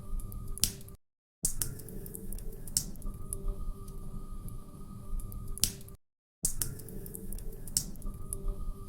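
Wood fire crackling in a fireplace, with a low steady rustle and scattered sharp pops, one louder pop just before each break. The sound cuts out to silence briefly twice, about five seconds apart, and the same few seconds of crackle repeat between the cuts, as in a looped recording.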